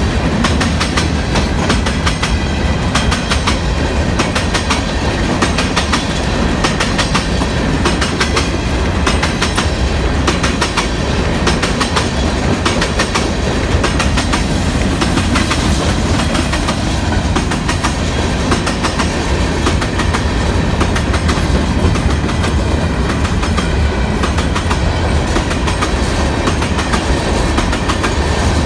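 A freight train's cars rolling past close by, steel wheels clicking over the rail joints in a steady, continuous run.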